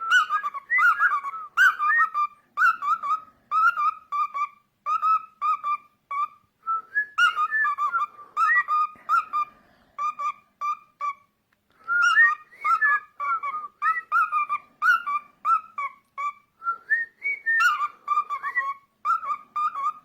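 Cockatiel whistling a song: a long run of short, quick whistled notes in phrases, with brief breaks between them.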